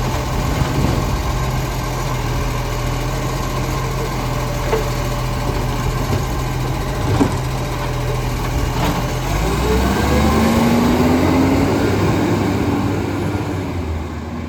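Garbage truck's diesel engine idling steadily, then revving up with a rising pitch about nine seconds in. A few sharp knocks sound along the way.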